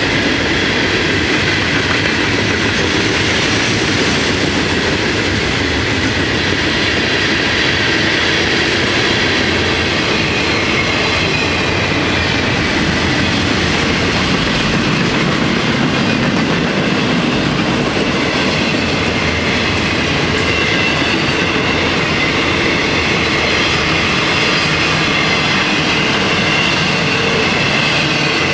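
Freight cars of a Florida East Coast train rolling past at close range, loaded hoppers giving way to intermodal flatcars with trailers and containers: a steady, loud rolling of steel wheels on rail. Faint high steady ringing tones run through it.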